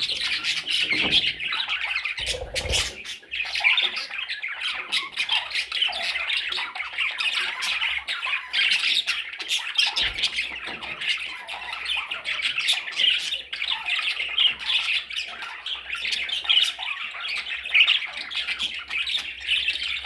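A group of small parrots chattering and squawking nonstop, many short, sharp calls overlapping.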